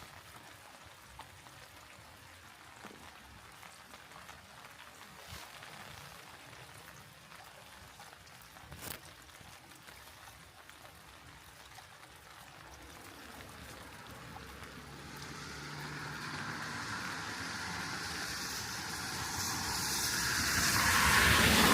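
Light rain falling with scattered drips, then a vehicle approaching on the wet road, its tyre hiss and engine growing steadily louder and passing close near the end.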